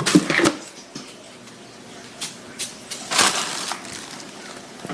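Several short crunching, rustling noises, the loudest cluster about three seconds in.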